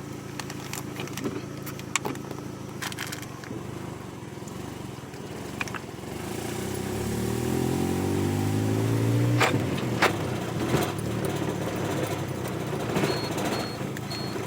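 Vehicle engine running on the move, rising in pitch as it speeds up about halfway through, then dropping abruptly, with scattered knocks and rattles. A faint regular beeping starts near the end.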